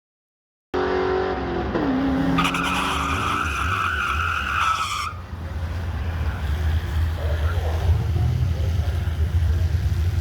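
A car at a drag strip: engine running, then tyres squealing for about two and a half seconds before the squeal stops abruptly, leaving a steady low engine rumble.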